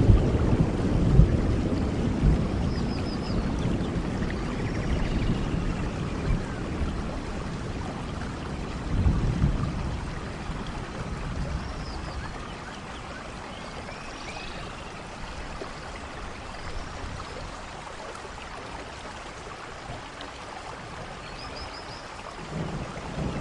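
Steady rain falling in a forest. Low thunder dies away in the first couple of seconds and rumbles again briefly about nine seconds in. The rain then settles to a quieter, even hiss, with faint high chirps now and then.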